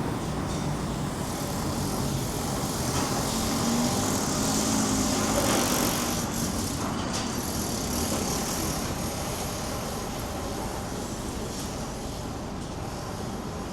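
Street noise with a motor vehicle passing, growing louder to a peak about five seconds in and then fading.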